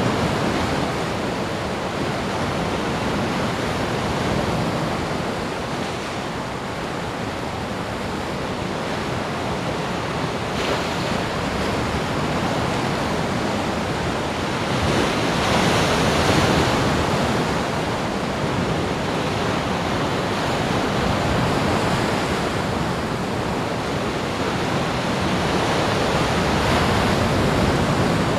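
Ocean surf washing onto a beach: a steady rush of breaking waves that swells louder as a wave comes in about halfway through and again near the end.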